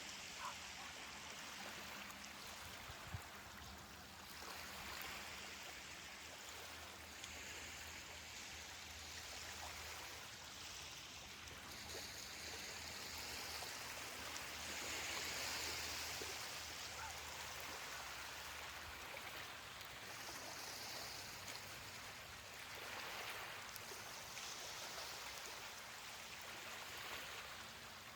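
Ocean waves breaking and washing up a beach. It is a soft, faint hiss that swells and ebbs every three to five seconds.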